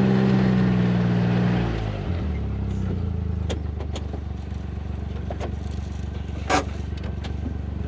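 A vehicle engine running, its pitch and level dropping to a steady idle about two seconds in, with a few sharp clicks or knocks over it, the loudest near the end.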